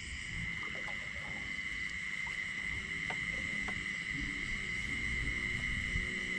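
Night insects such as crickets trilling in a steady high-pitched chorus, with a faint low rumble and a few soft clicks.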